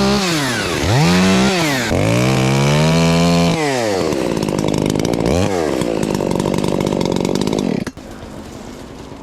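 Two-stroke chainsaw revved hard several times in quick succession as it trims off branch stubs, then running lower with one more short rev before it stops suddenly about eight seconds in.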